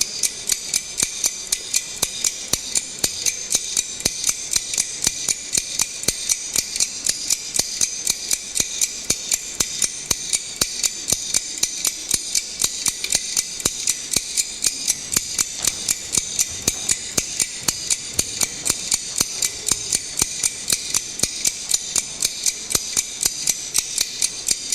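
Even, rapid ticking played over the sound system as part of a dance number's soundtrack, about three or four clicks a second, over a steady high hiss.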